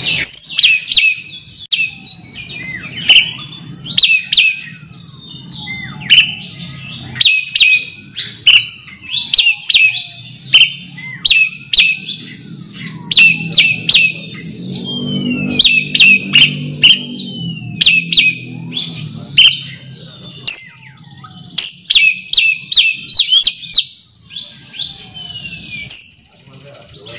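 Oriental magpie-robin (kacer) singing a loud, rapid string of sharp, varied whistled notes, the call it uses to challenge a rival.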